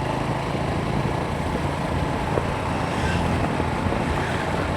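A vehicle's engine running steadily, with road noise, as it drives along.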